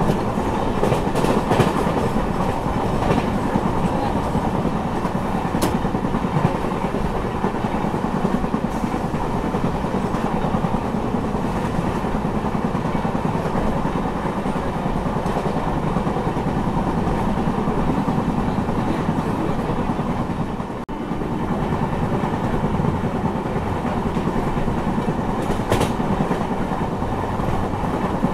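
Track sounds from inside a moving LHB passenger coach: a steady rumble of wheels on rail, with scattered sharp clicks of clickety-clack over rail joints. The sound dips briefly about 21 seconds in.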